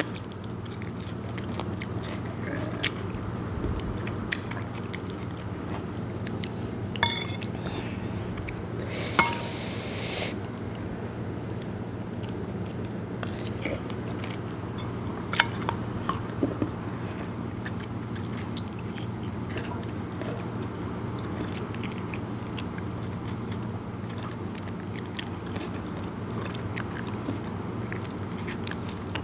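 Close-miked eating of a star gooseberry salad: biting and chewing the crunchy sour fruit, with scattered wet mouth clicks and one louder, longer crunchy burst about nine seconds in, over a steady low hum.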